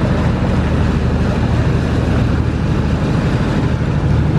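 Ferry engine running steadily under way, a low, even drone with wind and water noise over it.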